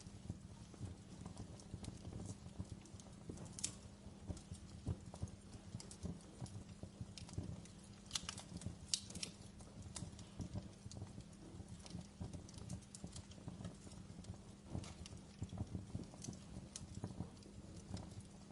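Log fire crackling steadily, with dense small pops and a few sharper, louder snaps, the loudest about halfway through.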